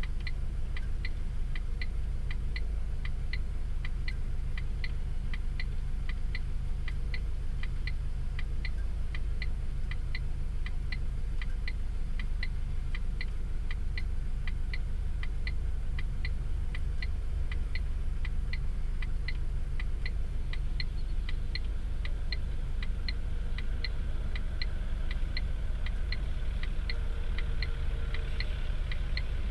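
A vehicle's hazard flasher ticking evenly about twice a second over a steady low engine rumble.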